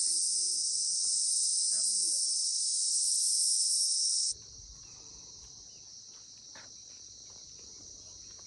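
Steady, high-pitched chorus of insects such as crickets or cicadas, loud at first and then suddenly much fainter about four seconds in, with a low rumble underneath from then on.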